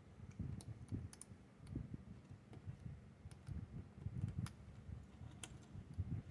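Faint, irregular small clicks and taps of an X-Acto hobby knife cutting detail off a small plastic model part, with low soft bumps from the part being handled.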